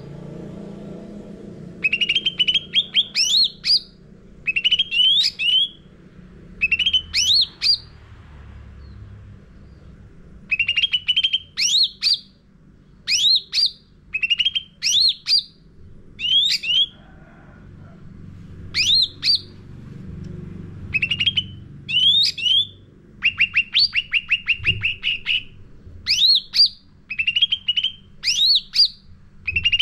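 Cucak ranting songbird singing energetically: bursts of fast, sharply gliding chirps about a second long, repeated over and over with short pauses, some phrases a rapid trill of many notes. A faint steady low hum lies underneath.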